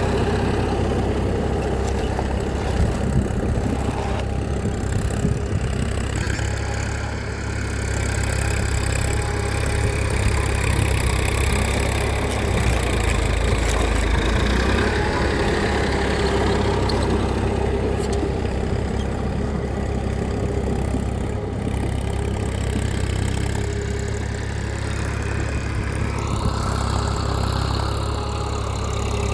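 Engine of a homemade mini dumper running steadily. Near the end a brief rising whine comes in.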